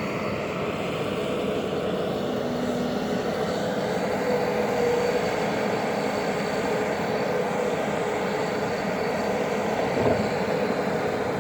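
Engine of a small snow-clearing machine running steadily while it clears deep snow, a constant drone with no break.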